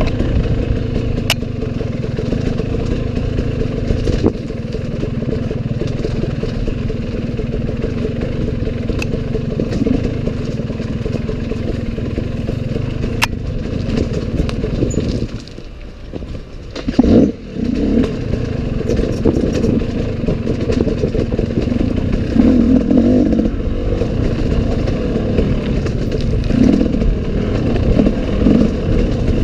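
Enduro dirt bike engine running under constantly changing throttle. About halfway through the throttle drops off briefly, then the engine picks up again with a sharp rev, followed by uneven surges.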